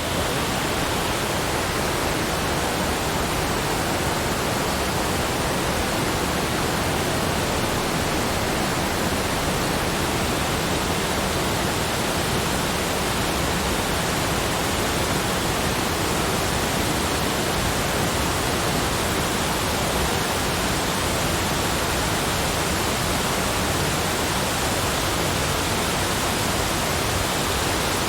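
Steady, unbroken rushing noise, spread evenly from low to high pitch and holding one level throughout, like pink noise or a waterfall's roar.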